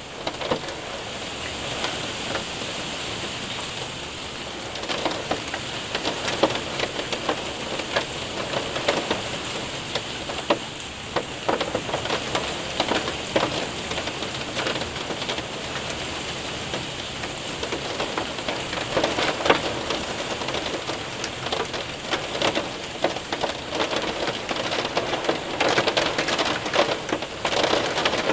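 Rain and hail pelting a window and roof, a steady hiss dotted with many sharp ticks of hailstones striking the surfaces.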